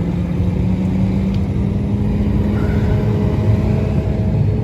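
Truck engine running as the truck drives, a steady low rumble with an engine note that rises slightly.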